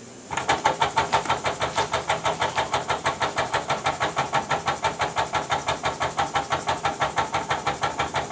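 Jean Comby toy steam engine running under steam, its exhaust puffing in a quick, even rhythm of about five or six beats a second. It drops out for a moment right at the start, then picks straight back up.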